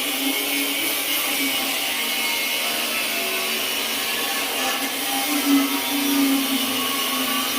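Angle grinder running steadily, a motor whine over a high-pitched hiss, briefly louder a little past halfway through.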